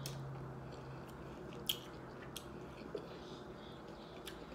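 A person chewing a mouthful of taco in a small room, with a few short, sharp crunches from the taco shell.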